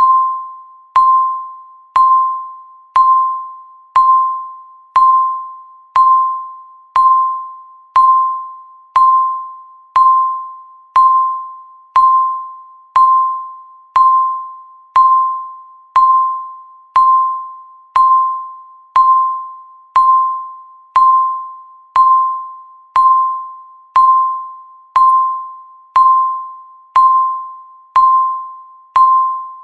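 Countdown timer's electronic beep, one a second: a single pitched tone struck sharply and fading away before the next, marking each passing second.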